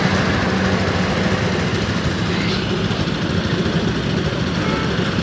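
An engine running steadily with a heavy, even rumble.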